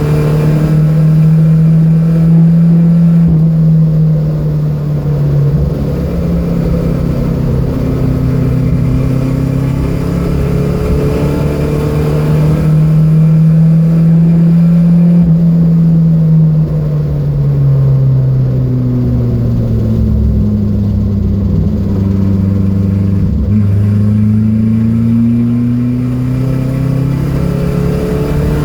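Datsun B210's four-cylinder engine running hard on track, its note holding steady, then falling over several seconds past the middle and climbing again near the end, with a brief knock as it starts back up.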